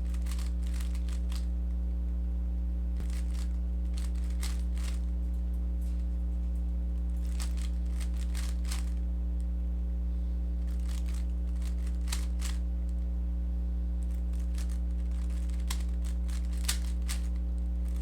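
Rubik's cube being turned through algorithms: quick runs of plastic clicking and clacking, about six runs with pauses between them, over a steady low electrical hum.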